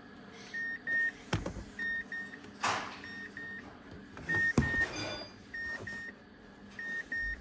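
Short electronic double beeps, repeating steadily about once a second, with a couple of sharp knocks and a brief rustle in between.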